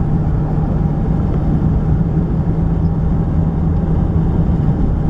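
A car driving at steady speed, heard from inside the cabin: a constant low engine drone with road and tyre noise.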